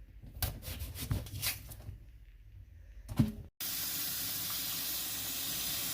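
A few short scrapes and knocks, then, after an abrupt cut about three and a half seconds in, a kitchen tap running steadily for rinsing peeled yam.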